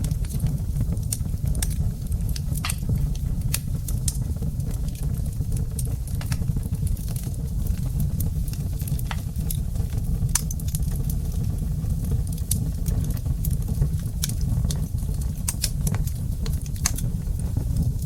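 Wood fire crackling in a fireplace: a steady low rumble of burning with scattered sharp pops and snaps from the burning logs.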